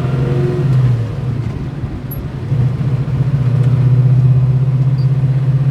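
The 383 cubic-inch stroker V8 of a 1969 Chevelle running, heard from inside the cabin: a steady low engine drone that eases off about a second in and builds back up from about two and a half seconds.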